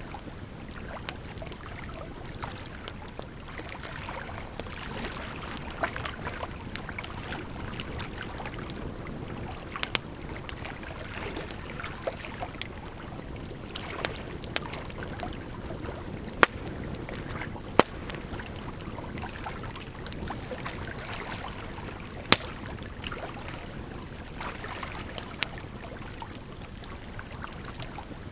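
Burning firewood crackling, with scattered sharp pops and snaps, a few of them loud, over a steady sound of running water.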